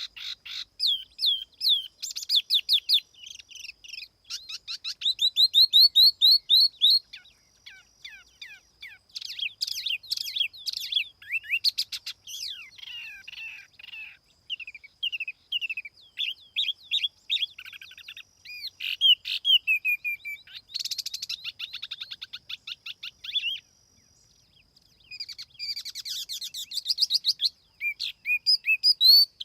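Tiểu mi songbird singing a lure song: rapid strings of sharp, sweeping whistled notes and fast trills in bursts, with a brief pause about three-quarters of the way through.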